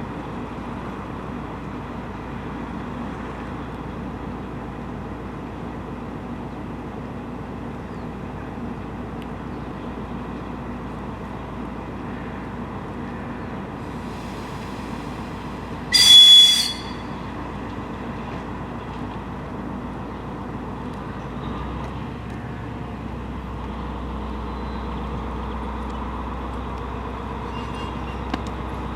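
DR1A diesel multiple unit running steadily with a droning diesel engine. About halfway through it sounds one short, loud horn blast of about a second. The low engine rumble grows stronger over the last several seconds.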